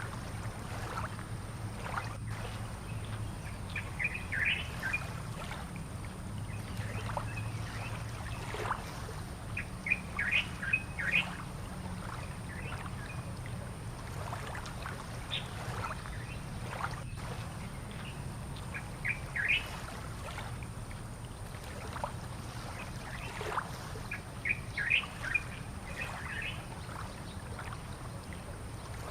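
Birds chirping in short bursts of quick calls every few seconds, over a steady low hum.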